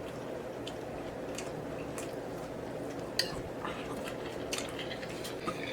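A person chewing a bite of ribeye steak, with a few light clicks of cutlery against a plate, over a steady low hum.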